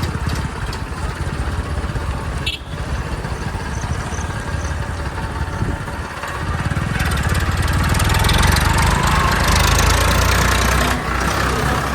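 Tractor engine running steadily, growing louder about halfway through as it is worked harder, then dropping back near the end.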